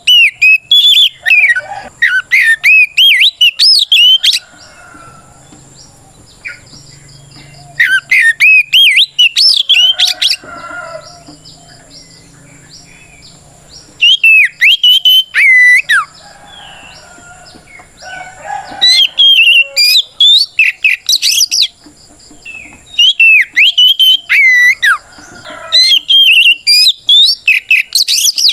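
Oriental magpie-robin singing a loud, full challenge song that calls out a rival: six bursts of rapid whistled phrases that swoop up and down, separated by pauses of a few seconds. A steady high-pitched whine runs underneath.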